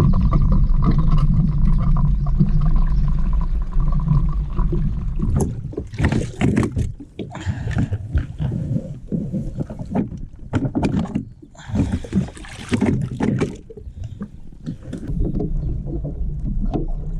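Water splashing and sloshing against a kayak's hull in irregular bursts. For the first few seconds a steady low hum runs underneath.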